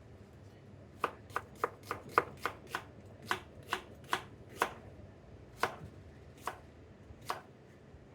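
Kitchen knife slicing onion on a cutting board. About fourteen sharp knocks of the blade on the board come quickly at first, about three a second, then spread out and stop shortly before the end.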